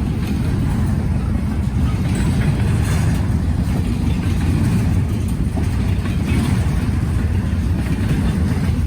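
Strong gusting wind buffeting the microphone: a loud, steady low rumble.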